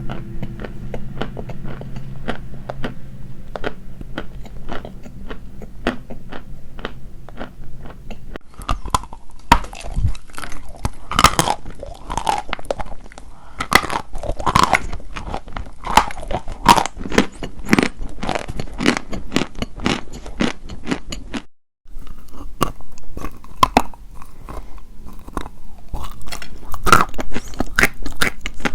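Dry white chalk being bitten and chewed close to the microphone: a dense, irregular run of sharp crunches and crackles, with a brief dropout about three quarters of the way through.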